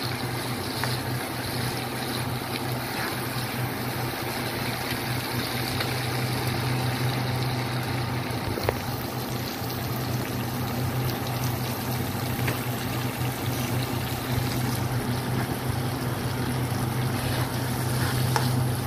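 Tomato paste and squid ink sizzling and frying with pork, onion and garlic in a wok as a spatula stirs, over a steady low hum.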